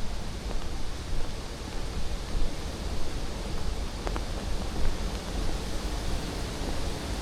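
Steady rush of falling water from a nearby waterfall: an even hiss over a heavy low rumble, with a faint click about four seconds in.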